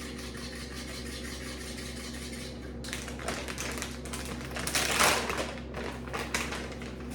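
Rapid clicking and tapping of a kitchen utensil against a bowl over a steady low hum. The clicks start about three seconds in, are busiest near the middle, and stop shortly before the end.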